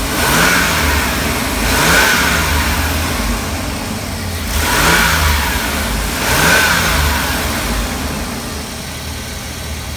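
Chevrolet Express van's 4.3 V6 engine running and being revved four times, each rev rising and falling back to idle. It runs again after a new distributor cap and rotor, spark plugs and wires cured its crank-but-no-start.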